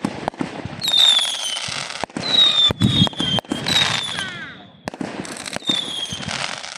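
Fireworks going off: about four high whistles, each falling slightly in pitch, over crackling and a string of sharp bangs.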